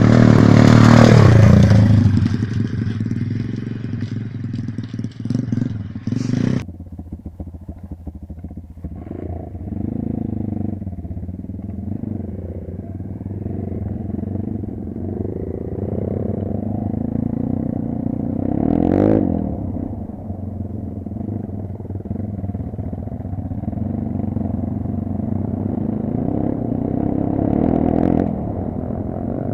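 Dirt bike engine being ridden off-road, its revs rising and falling again and again with throttle changes. It is loudest in the first two seconds, and the higher hiss drops away abruptly about six seconds in.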